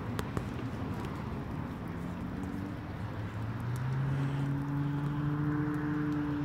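A motor vehicle's engine hum, steady in pitch, that comes in about halfway through and grows louder over a low rumble.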